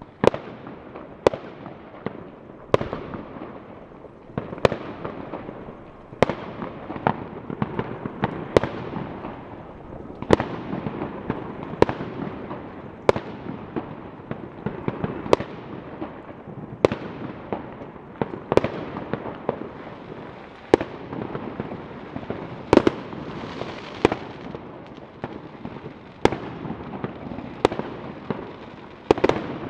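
Fireworks exploding: sharp bangs every second or two over a continuous crackle and rumble of many shells bursting.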